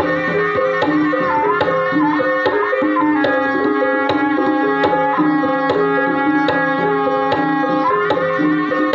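Gamelan music for an ebeg dance: sustained pitched notes stepping through a melody over regular hand-drum strokes, with a wavering melodic line above during the first few seconds and again near the end.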